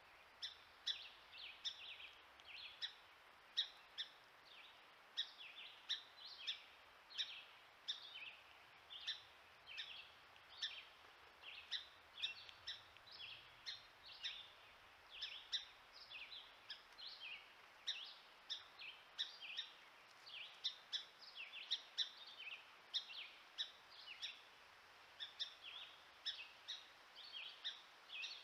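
Small birds chirping: a dense, steady run of short, high, down-slurred chirps, a few each second, over a faint hiss.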